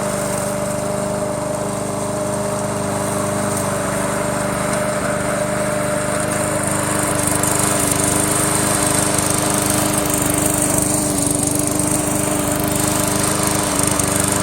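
Remote-control push lawn mower running steadily while mowing grass. It gets a little louder, with more high hiss, from about halfway through.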